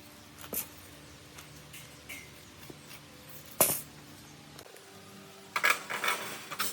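A few sharp knocks and clicks of objects being handled, over a faint steady hum. The loudest knock comes about three and a half seconds in, and a quick run of clatter comes near the end.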